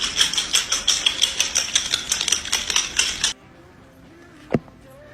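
Rapid run of sharp clicks or taps, several a second, that cuts off suddenly a little over three seconds in; one more single click about a second later.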